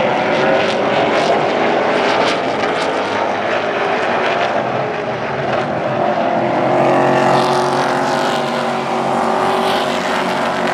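Super Truck race engines running at speed on the track, several at once, loud and continuous with their pitch shifting as trucks pass.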